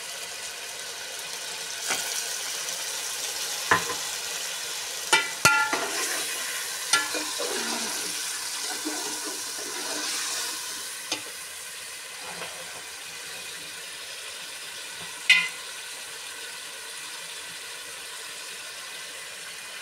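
Sliced onions sizzling in hot oil in a metal pot, the sizzle swelling about two seconds in as a little water goes in and easing off later. A steel ladle stirs and clinks against the pot several times.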